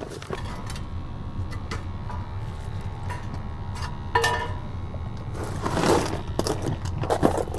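Gas furnace running with a steady low hum, under scattered knocks, clicks and rustling, scraping handling noise. There is a brief pitched squeak about four seconds in, and the handling noise is loudest around six seconds.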